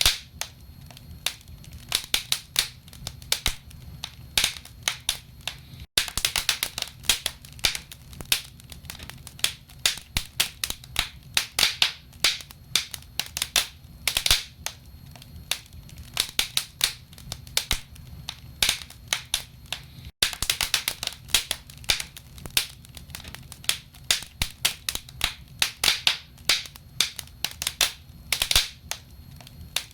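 Wood fire crackling in a fireplace: dense, irregular pops and snaps from burning logs over a low steady rumble. The sound drops out for an instant twice.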